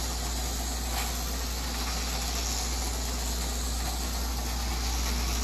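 Toy car running with a steady mechanical hum and hiss, unchanging throughout.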